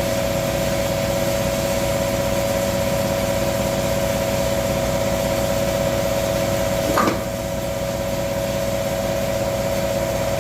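Air compressor running with a steady hum. A single short knock about seven seconds in.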